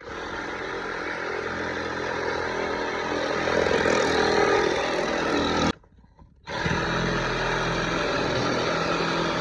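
Kobelco SK55 mini excavator's diesel engine running steadily under working load. The sound cuts out abruptly for under a second past the middle, then comes back at the same level.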